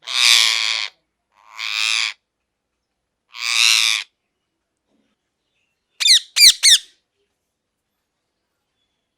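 Parrot squawking: three harsh drawn-out squawks in the first four seconds, then a quick run of three sharp calls that fall in pitch about six seconds in.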